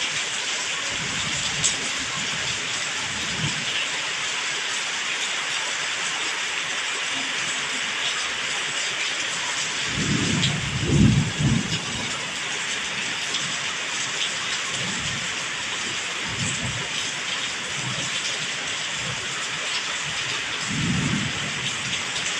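Heavy tropical rain falling steadily, with thunder rumbling several times as the storm moves away; the loudest roll comes about ten seconds in.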